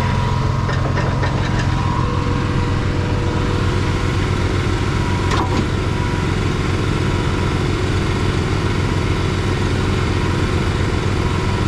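Diesel engine idling steadily, with one sharp click about five and a half seconds in.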